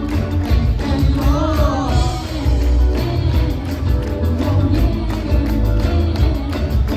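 Live band playing a pop-rock song: a singer over drums, bass and guitar with a steady beat.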